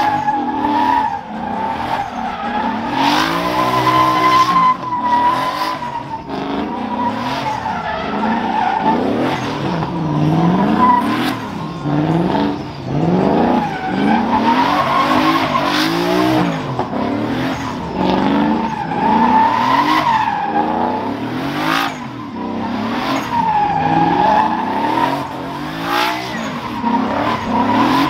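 Truck doing a burnout: the tyres squeal continuously while the engine revs up and down over and over.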